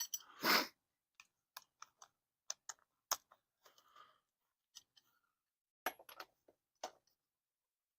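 Scattered light clicks and knocks, with one louder clunk about half a second in: a breaker bar and socket working on wheel lug nuts as a wheel is tightened down.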